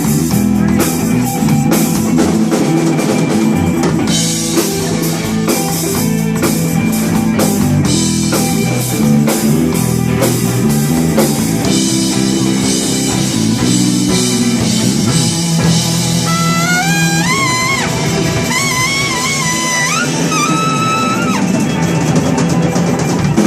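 Live rock band playing an instrumental passage: drum kit keeping a steady beat under bass and rhythm guitar, with a lead melody line stepping between held notes in the second half.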